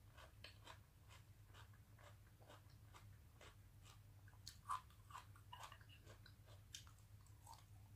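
Faint, close-miked chewing of a mouthful of grilled meat and sautéed cabbage: soft mouth clicks and small crunches, the loudest about four and a half seconds in, over a low steady hum.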